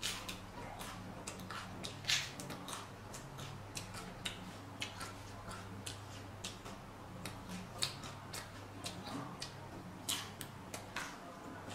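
Close-up crunching and chewing of raw vegetables with fish paste: an irregular run of crisp crunches and wet mouth clicks, with a louder crunch about two seconds in and again near the end.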